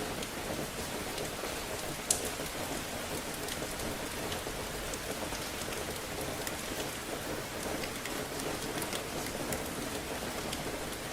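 Steady rain falling, with scattered individual drops tapping sharply on a surface and one louder tap about two seconds in.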